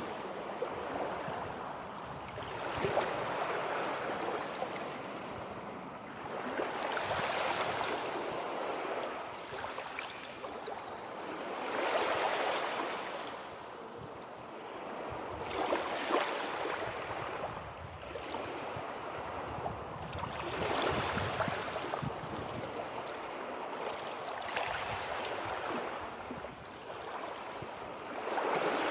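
Sea waves breaking and washing on the shore, each swell rising and falling away about every four to five seconds.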